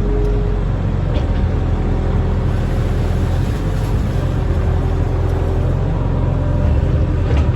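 Barge-mounted excavator's diesel engine running steadily with a deep, even drone, and a light knock near the end.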